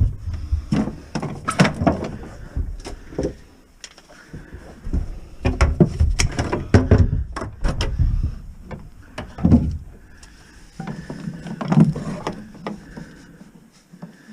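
Irregular knocks, clicks and clattering of hands-on work with hard objects, some strikes much louder than others, with short quiet gaps between.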